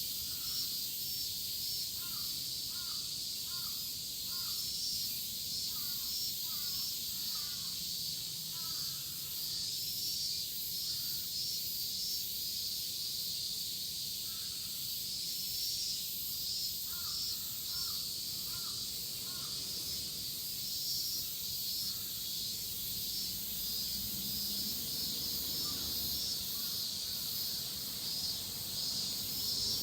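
A chorus of cicadas buzzing steadily, with a bird calling in short runs of three or four calls a couple of seconds in, again a few seconds later, past the middle and near the end.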